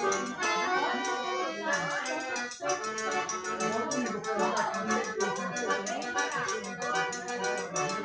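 Accordion-led traditional Brazilian music in forró style, with a quick steady percussion beat.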